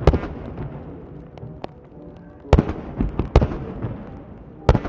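Aerial fireworks shells bursting with sharp bangs: one right at the start, a quick run of three or four about halfway through, and another near the end.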